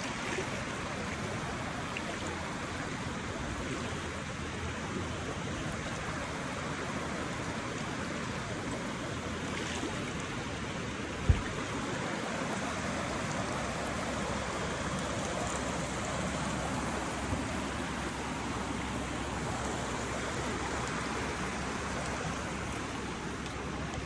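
Floodwater rushing steadily, a continuous noise of moving water. One sharp low thump about eleven seconds in.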